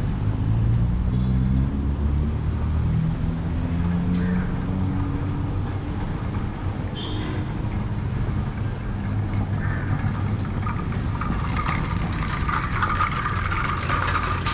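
A motor-vehicle engine running close by with a low hum, its pitch shifting in the first few seconds, over steady street traffic noise. About ten seconds in, a higher, busier sound joins it.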